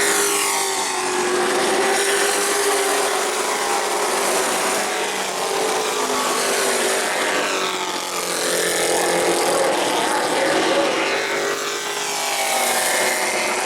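Several stock-car race trucks running at speed on an asphalt short track, their engines at high revs. The sound swells and fades as trucks go past, dipping briefly around eight and twelve seconds in.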